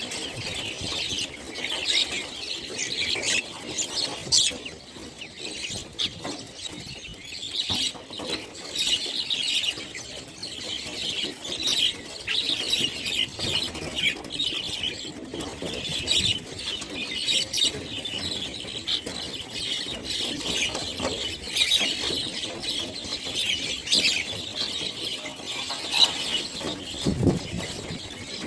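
A flock of birds chattering: many short, high chirps overlapping continuously, over a low rustling noise.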